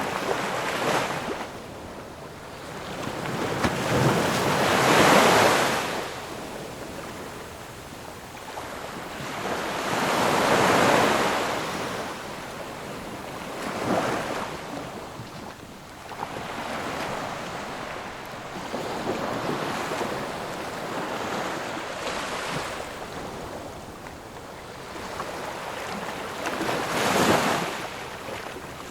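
Sea waves breaking on a shore, one after another every few seconds, each a rush of surf that swells and then fades; the loudest breaks come about five seconds in, around eleven seconds in, and near the end.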